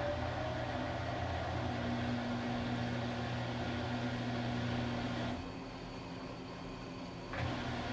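Washing machine running with a steady motor hum and the churn of the wash; near the end the hum drops away for about two seconds, then starts again, as the drum pauses and restarts during the wash cycle.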